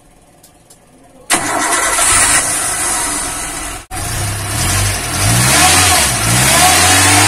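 Daihatsu Zebra Espass carbureted four-cylinder engine started about a second in, then running with the revs rising and falling several times.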